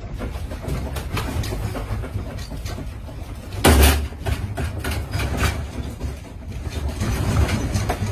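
Continuous low rumbling with constant irregular rattling and knocking, typical of a building and its contents shaking in an earthquake, and one loud crash about four seconds in.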